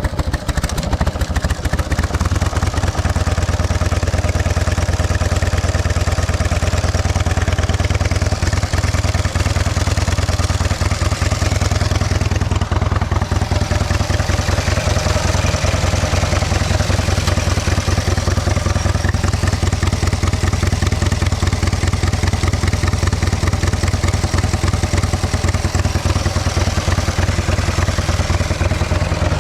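1915 Arcade motorcycle's 650cc JAP V-twin engine running steadily with a fast, even clattering beat.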